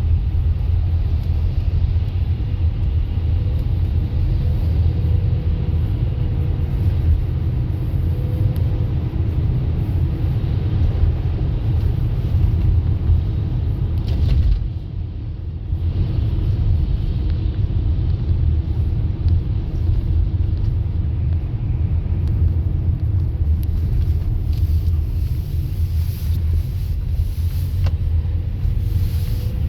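Car driving: a steady low rumble of engine and tyre noise, with a brief dip in level about halfway through.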